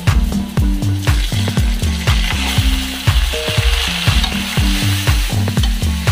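Raw chicken pieces frying in hot oil with onions in an aluminium kadai: a sizzle that swells about two and a half seconds in, with wooden spatula scrapes and clicks. Background music with a repeating bass line plays throughout and is the loudest part.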